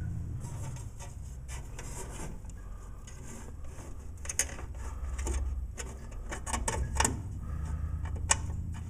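Hand work on furnace parts: scattered small clicks, taps and rubbing as a part and screws are handled and fitted, with a few sharper knocks about seven and eight seconds in, over a low steady hum.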